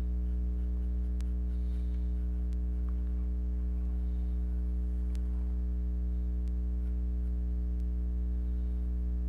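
Steady low electrical hum with a stack of evenly spaced overtones, unchanging throughout, with a few faint scattered ticks.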